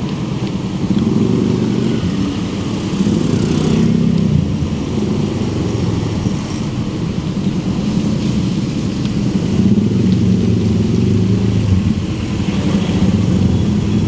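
Road traffic: motor vehicle engines, motorcycles among them, running close by with a continuous low rumble that swells and eases several times.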